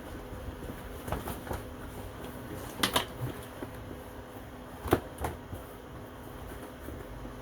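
Scattered light clicks and knocks of objects being handled, with a sharp double click about three seconds in and a single sharp click about five seconds in, over a steady low hum.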